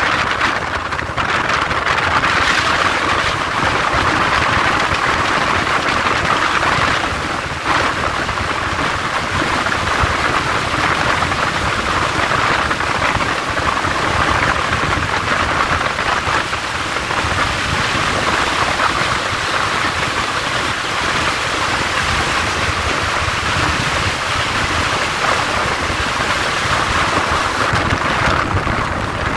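Steady rush of wind and running noise from a moving passenger train, heard at an open coach window, with a short dip in loudness about seven seconds in.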